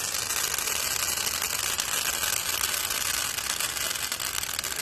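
Fireworks crackling: a dense, unbroken stream of tiny rapid pops.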